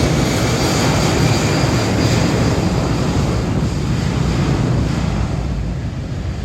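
Delta jet airliner's engines at departure thrust, a loud, steady roar with a hissing top that slowly eases over the last couple of seconds.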